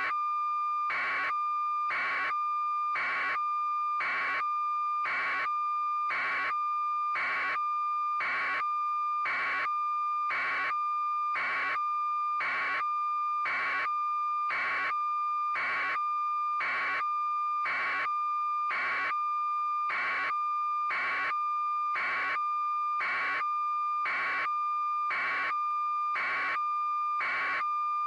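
A steady electronic tone with a short beep-like pulse repeating evenly about once a second, never changing in level.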